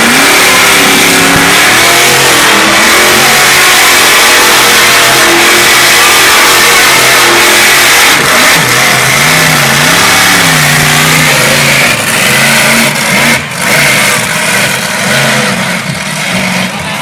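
Monster truck engine revving very loudly, its pitch rising and falling again and again as the throttle is worked; after about twelve seconds the sound becomes less steady and somewhat quieter.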